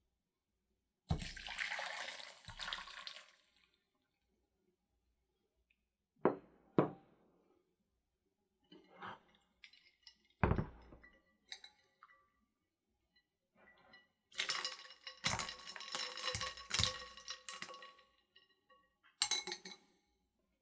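Kitchen work sounds: water pouring or running into a vessel twice, with a few sharp knocks of glass or dishware set down in between, and some ringing clinks.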